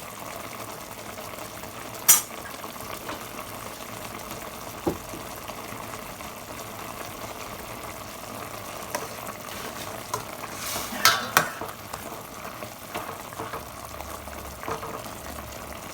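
Chicken adobo simmering and sizzling in a pot as its sauce reduces, a steady bubbling hiss. A utensil clinks sharply against the pot about two seconds in, and again in a short run of clinks and scrapes around eleven seconds.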